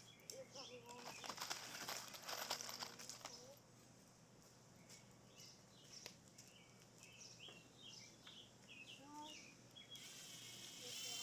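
Small birds chirping in short repeated calls, with a stretch of scraping, rustling noise about a second in that lasts a couple of seconds.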